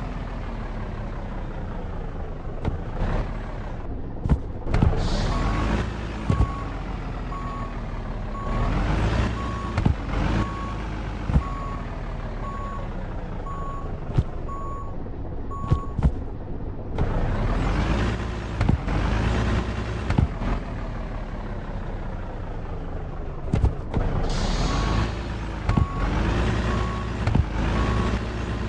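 Truck engine revving up and dropping back again and again, about every three seconds, with sharp knocks here and there. A steady-pitched beep sounds about once a second for a stretch in the middle and again near the end.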